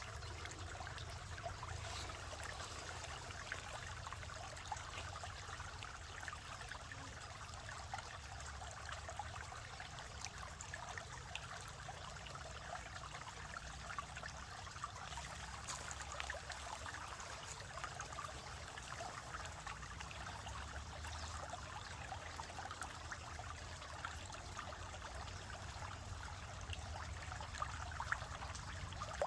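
Water flowing and trickling steadily, a continuous splashing that stays unchanged throughout.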